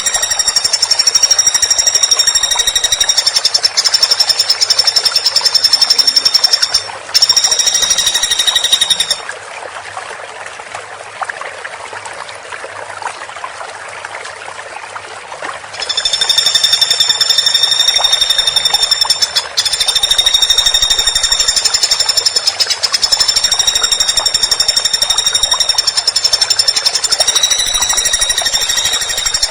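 Woodpecker giving long, very rapid rattling trill calls, high-pitched, in bouts of a few seconds each with short breaks between them. The calls stop for several seconds in the middle, leaving only a fainter hiss.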